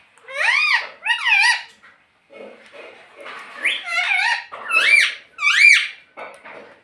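Pet parrot giving a series of loud, high-pitched calls, each rising and falling in pitch: two about half a second to a second and a half in, then, after a few fainter sounds, three more near the end.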